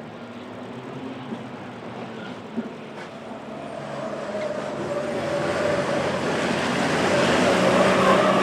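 Diesel racing truck engines building steadily louder as the trucks approach.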